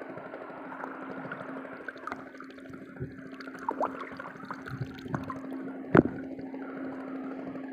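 Water sloshing and gurgling over a steady hum, with scattered small clicks and one sharp knock about six seconds in.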